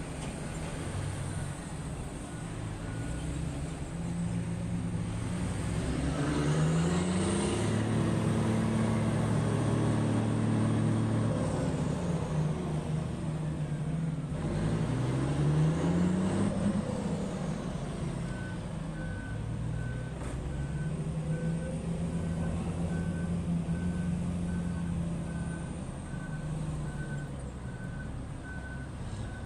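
Heavy diesel mining machinery running, its engine revving up twice with a rising pitch. A reversing alarm beeps steadily from about two-thirds of the way in.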